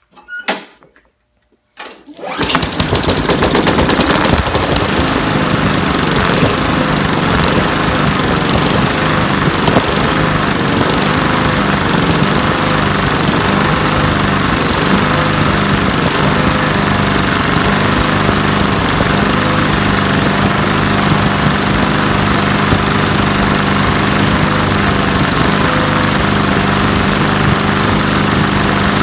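Briggs & Stratton small engine on a Craftsman push mower, pull-started, catching about two seconds in and then running steadily. It now runs after water was cleaned from the float bowl and the spark plug was replaced.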